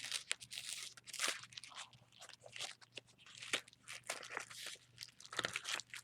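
Packaging being unwrapped by hand, crinkling and rustling in a run of irregular crackles.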